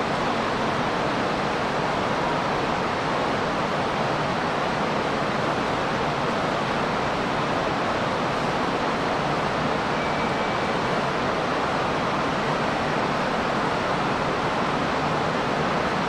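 Steady rushing noise on an underground platform as a train approaches through the tunnel, holding an even level throughout.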